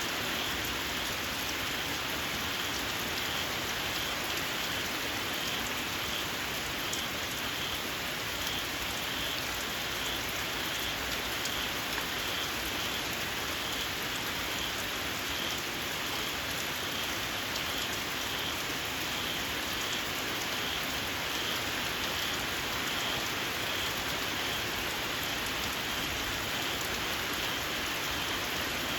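Steady rain falling, with small frogs giving a shrill, squealing call repeated evenly, about one to two calls a second.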